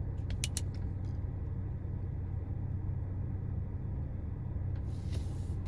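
Steady low rumble, with a few faint clicks in the first second.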